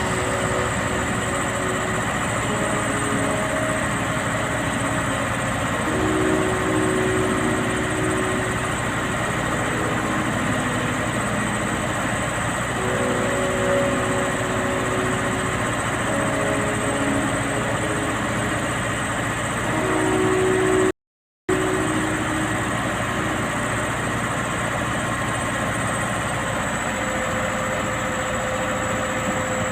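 Caterpillar 120G motor grader's diesel engine running steadily at idle, cut off briefly about two-thirds of the way through.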